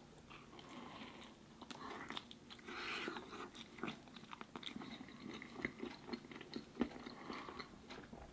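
Biting and chewing a slice of crispy-crust frozen pepperoni pizza: faint, irregular crunches and mouth sounds.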